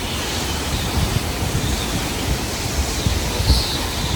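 Gusty hurricane wind: a steady rush with irregular low buffeting of the microphone.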